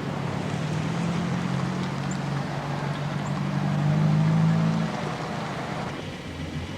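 A motor vehicle's engine running steadily. It grows louder toward about four seconds in and drops away about a second later.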